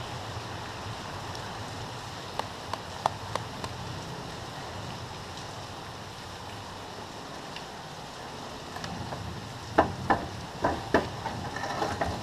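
Steady rain hiss with scattered drops tapping, a few louder taps in a quick cluster near the end.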